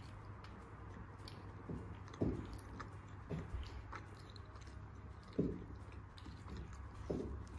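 Someone chewing and biting food, likely a homemade donut, with a handful of short, irregular mouth noises over a low steady hum.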